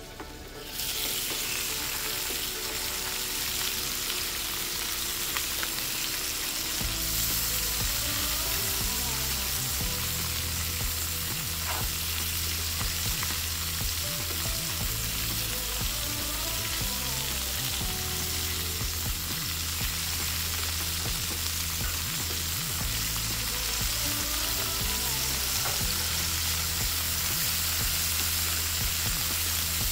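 Meat, sausages and sliced potatoes sizzling on a propane flat-top griddle, a steady frying hiss that comes up about a second in, with occasional clicks of metal tongs turning the food.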